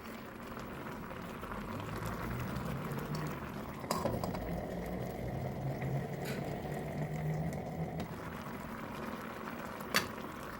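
Food bubbling and hissing as it cooks in a pot on the stove, steady throughout, under a low hum. Sharp clicks come at the start, about four seconds in and near the end.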